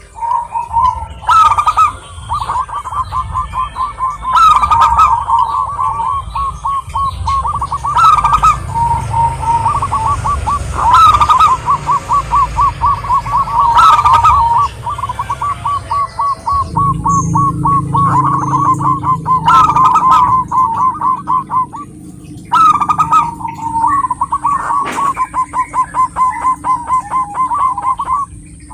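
Zebra dove cooing in its rapid rolling trills, one long phrase after another with a short pause about three quarters of the way through.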